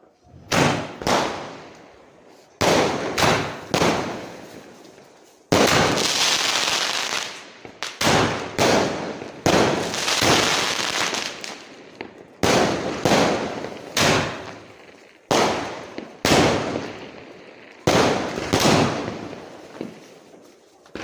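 A 30-shot skyshot aerial firework cake firing: sharp bangs one after another at uneven intervals, each trailing off, with a few longer stretches of dense crackle.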